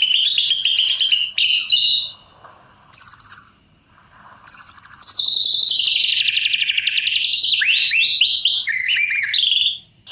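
White-rumped shama (murai batu) singing: a few short bursts of rapid high notes with gaps between them, then from about four and a half seconds one long unbroken phrase of fast repeated notes and upward-sweeping whistles that stops just before the end.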